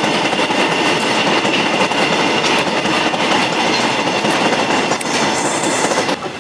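Train passing close by: a loud, steady rumble and clatter of wheels on the rails that eases off near the end.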